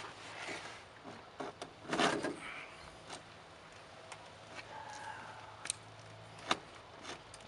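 Scattered light knocks and clicks with a short scrape about two seconds in: handling noise of a refrigerator being eased through a tight opening.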